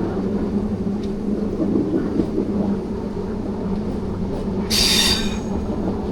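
Train running on the rails with a steady rumble, and a brief high-pitched squeal about five seconds in.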